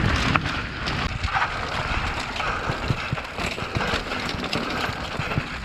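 Downhill mountain bike running fast over rough ground: a steady rushing noise full of short rattles and knocks from the bike jolting over the surface.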